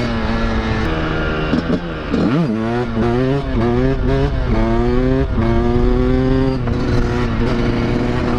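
Honda CR500 two-stroke dirt bike engine under way. Its pitch climbs and drops back several times as the rider accelerates and changes gear, then holds steady near the end.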